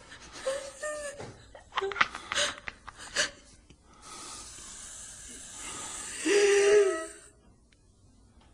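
A person's breathing: a rasping, breathy hiss that swells about two-thirds of the way through into a loud, voiced wheezing gasp, then cuts off suddenly. A few short clicks come earlier.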